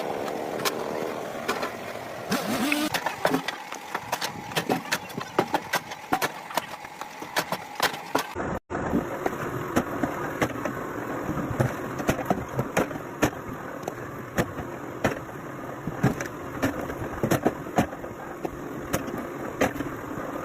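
Engine-driven machinery running, with frequent irregular knocks and clatter over a steady noise. The sound cuts out for a moment about eight and a half seconds in.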